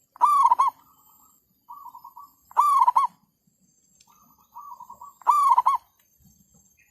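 Zebra dove (merbuk) cooing: three loud phrases about two and a half seconds apart, each a soft rolling note followed by a strong coo that breaks into short hooked notes.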